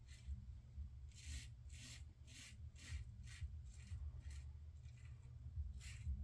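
Razor strokes scraping through lather and short stubble: about a dozen short rasping strokes in quick runs, with a pause of about a second before the last few.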